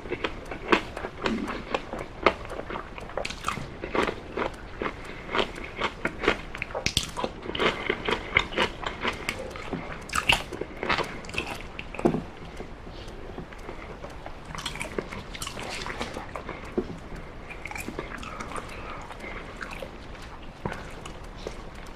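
Close-miked chewing and biting of baked chicken drumsticks: dense wet smacks and clicks, softer in the second half.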